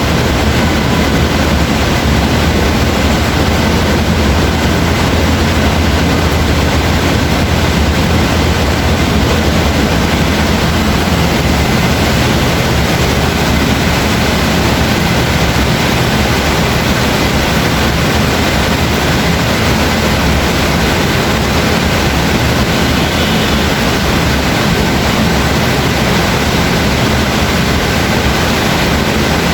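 Steady heavy rain, a continuous even hiss, with a deeper low rumble under it that eases off about twelve seconds in.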